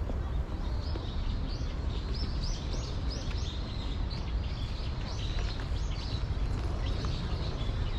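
Many small birds chirping in quick, repeated short calls over a steady low outdoor rumble.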